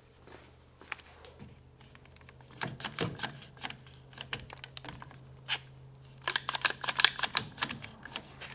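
Quick runs of light clicks and taps, bunched around three seconds in and again from about six to eight seconds in, over a steady low hum.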